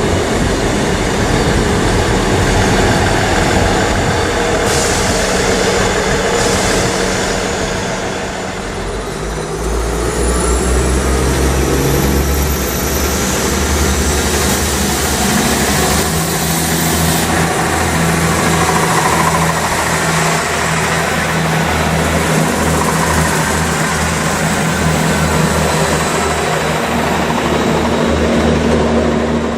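A train running by, with a heavy diesel engine's low, steady note coming in strongly about nine seconds in.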